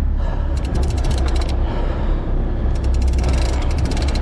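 Big-game fishing reel's ratchet clicking rapidly in two bursts of about a second each, over a steady low rumble.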